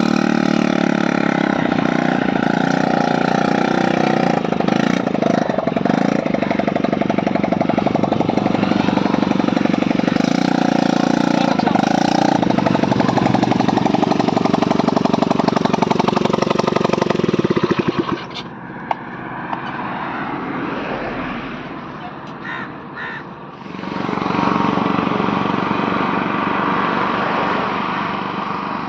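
Small ATV engine running under throttle, its pitch rising and falling. It drops back to a lower, quieter running at about 18 s, and picks up again at about 24 s.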